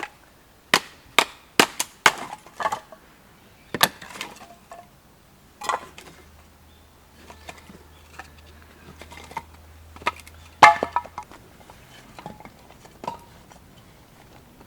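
Dry wood being broken up by hand: a series of sharp, irregular cracks and knocks, several close together in the first few seconds and the loudest about ten seconds in.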